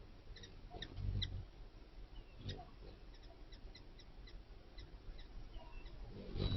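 Lesser long-nosed bats at a feeder: many brief high squeaks and chirps, a few short falling whistles, and a couple of soft low thumps.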